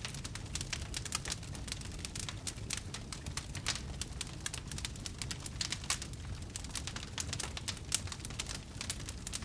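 Wood fire burning in a fireplace, crackling and popping with many quick irregular snaps over a low rumble.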